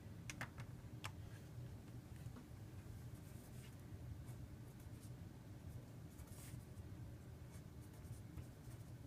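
Faint scratching of hand writing and drawing on a surface, with two light taps about a second in, over a low steady hum.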